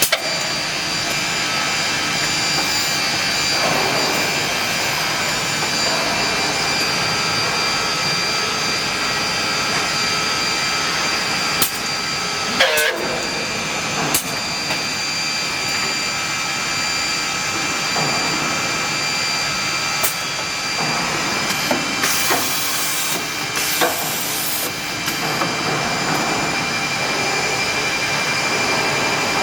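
Six-sided CNC panel drilling machine running: a steady mechanical noise with a constant high whine of the spindles, punctuated by clicks. About halfway through a whine falls quickly in pitch, and about three-quarters through come two short hissing bursts of air.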